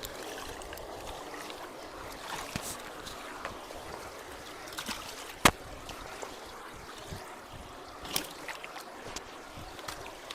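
Water running steadily through a partly blocked road culvert, with a few light knocks and one sharp knock about five and a half seconds in.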